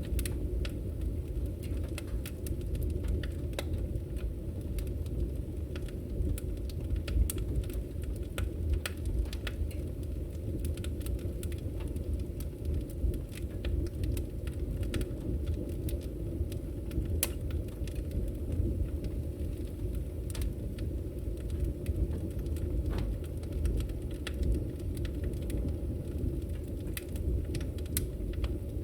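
Wood fire burning, with frequent sharp irregular crackles and pops over a steady low rumble.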